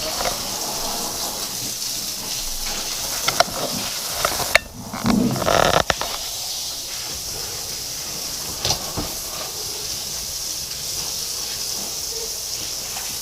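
Water running from a hose in a steady hiss, with a brief break and a louder, splashier stretch about five seconds in, and a few sharp clicks.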